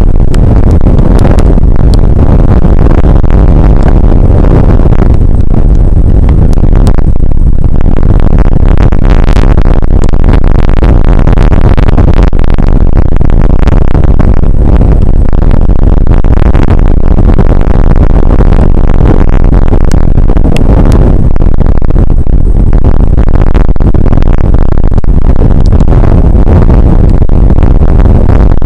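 Rain shower on an outdoor weather camera's microphone: a loud, constant, overloaded rumble with many sharp crackles of drops striking.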